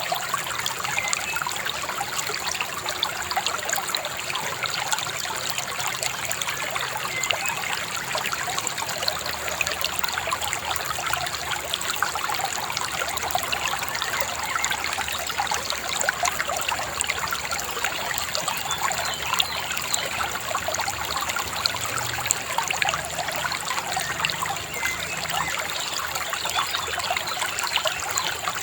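Shallow river babbling and trickling over stones, a steady dense rush of water full of small splashes and gurgles.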